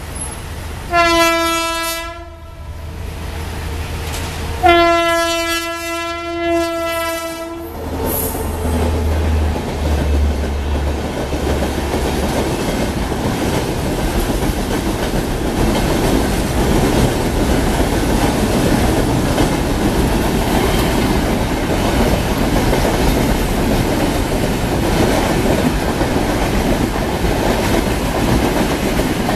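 WAP-7 electric locomotive's horn sounding two steady blasts, a short one and then a longer one of about three seconds, as it approaches. After that comes the steady rumble and wheel clatter of a passenger train running past on the rails.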